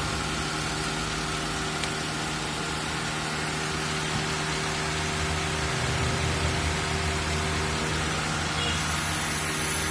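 Car engine idling steadily with the air-conditioning compressor running while the system is charged with R-134a refrigerant, a low hum under an even hiss.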